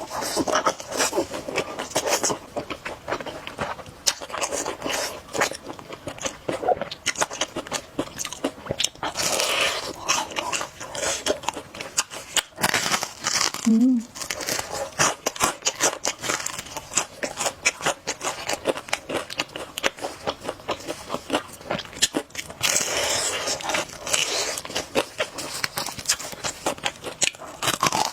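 Close-miked eating: a person biting and chewing crunchy food, many quick crisp crunches and mouth noises in an irregular stream.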